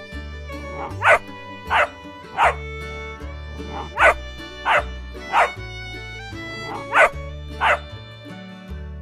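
Dog barking: eight barks in three sets of three, three and two, each set with its barks about 0.7 s apart, over background music.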